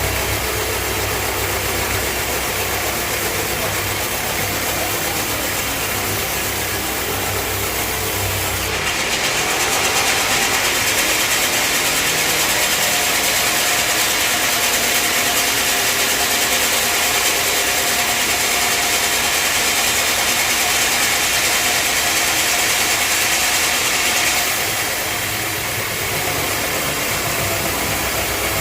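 Band sawmill running steadily. From about nine seconds in, a brighter, louder noise takes over for some fifteen seconds as the blade cuts through a log, then drops back to the machine's running sound.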